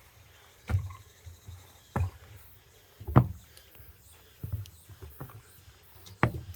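Footsteps of a hiker walking on a mountain trail: dull thuds about once a second, each with a light click.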